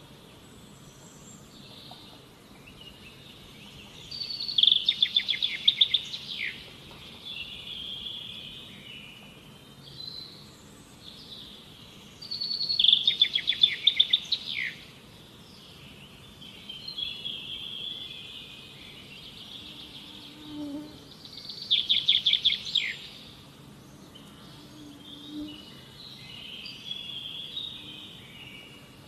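Wild birds singing: three loud bouts of a fast run of repeated high notes, each about two seconds long, with quieter chirps and calls in between.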